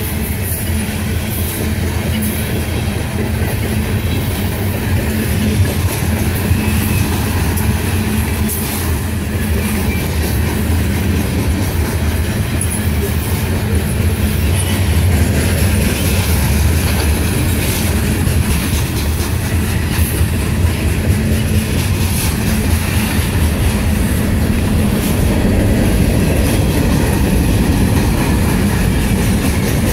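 Freight train cars, mostly coal hoppers, rolling steadily past at close range: a continuous rumble of steel wheels on rail with many small clicks and clacks.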